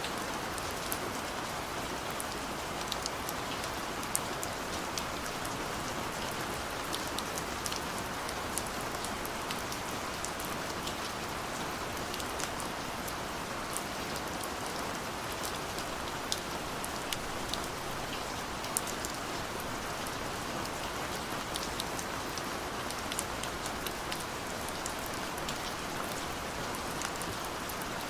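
Steady rain falling, with many small sharp drop hits scattered through the steady rush.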